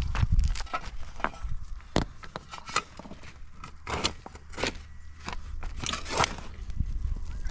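Irregular scraping and knocking: short sharp knocks mixed with several longer drawn-out scrapes, the heaviest about four and six seconds in, over a low steady rumble.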